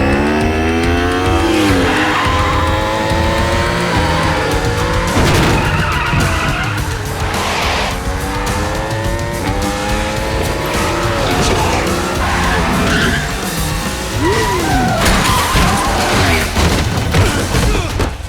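Film soundtrack of a motorcycle chase: several motorcycle engines revving up and down, with tyre skids and repeated sharp hits, over a music score.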